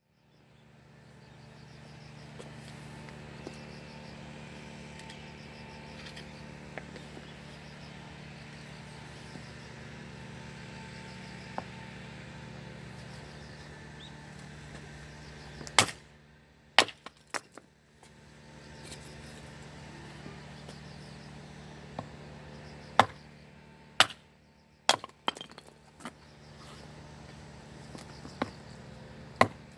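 Firewood cracking and snapping: a few sharp, loud snaps in the second half, spaced a second or more apart, over a steady low hum.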